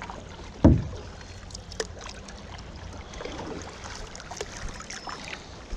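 Shallow creek water running and trickling around a kayak. A single heavy thump comes about a second in, followed by scattered light knocks and clicks.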